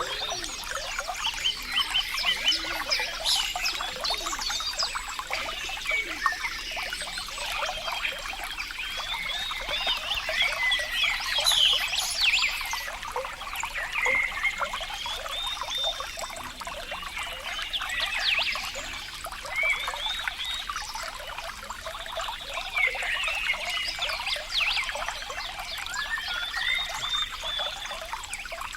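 Water trickling and gurgling steadily, a continuous mass of small splashes and bubbling.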